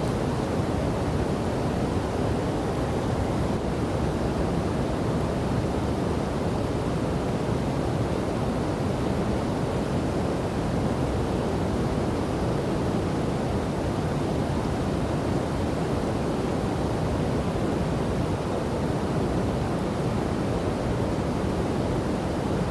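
Waterfall and river water rushing in a steady, even low rush with no breaks or changes.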